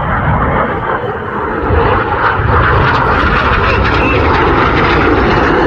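Jet noise from Red Arrows BAE Hawk T1 aircraft flying over: a steady rushing roar that gets louder about two seconds in.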